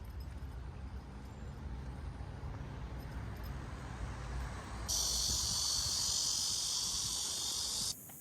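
Low rumble for about the first five seconds, then a loud, steady, high-pitched insect chorus that cuts in suddenly about five seconds in and cuts off just before the end.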